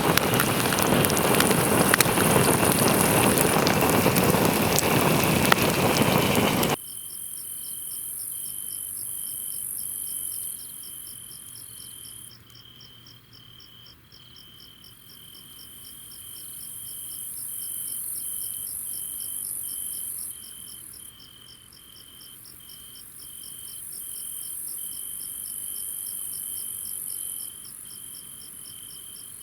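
A loud rushing noise with scattered clicks cuts off abruptly about seven seconds in. It gives way to a night chorus of crickets and other insects: an evenly repeated high chirping pulse, an on-off trill, and a high shrill hiss that swells and fades.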